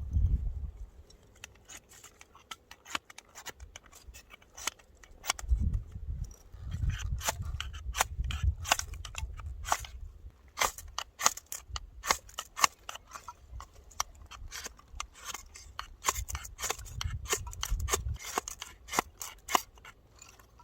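A knife scraped again and again down a ferro rod, many quick rasping strokes in runs, with the fire failing to light. The strokes are made with the knife's spine, which is throwing few or no sparks.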